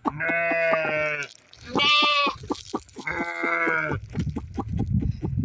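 Livestock bleating: three quavering bleats, the middle one higher-pitched, followed by a low rumbling noise near the end.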